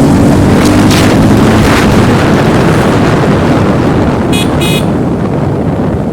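Motorcycle on the move, probably the Jawa Perak: wind rushing over the microphone with the engine running underneath. Two short horn toots come in quick succession a little past the middle.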